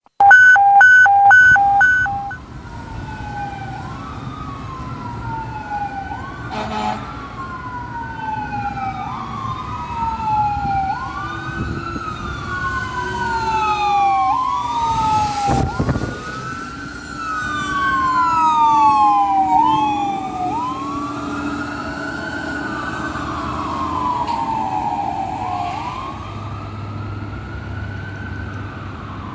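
A fire engine's electronic Whelen 295 siren on wail, sweeping up and down in pitch about every two seconds, with a second wail overlapping out of step. It opens with a loud burst of short horn blasts in the first two seconds, and a truck engine drones underneath.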